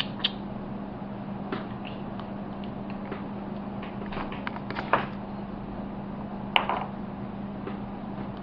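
A steady low hum with scattered faint clicks, and two brief, louder sharp ticks about five and six and a half seconds in.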